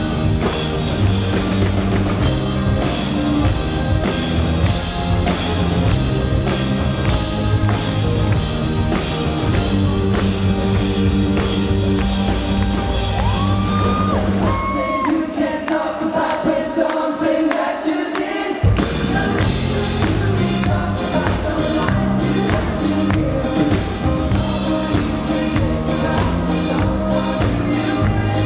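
Live rock band playing, with lead vocals over drums, bass and guitar. About halfway through, the drums and bass drop out for a few seconds, leaving held vocal and guitar lines, then the full band comes back in.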